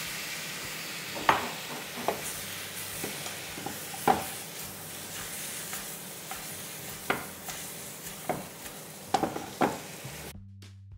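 Raw chicken pieces sizzling in hot oil and browned masala in a frying pan, stirred with a spatula that knocks against the pan several times. The sizzle cuts off near the end.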